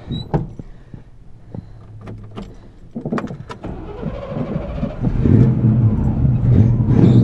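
Cold start of a 1987 Chevy pickup's fuel-injected 305 small-block V8 with straight pipes: a few clicks, then the starter cranks about three seconds in, and the engine catches about five seconds in and runs loud.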